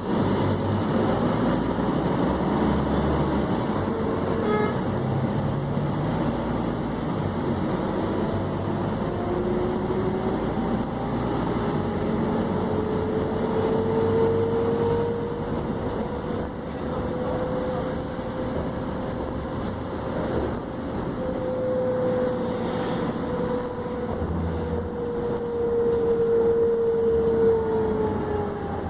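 Scania K310UB three-axle city bus running under way: a low drivetrain rumble with a whine that climbs in pitch over several seconds as the bus accelerates, holds steady, then falls near the end. A short beep sounds about four and a half seconds in.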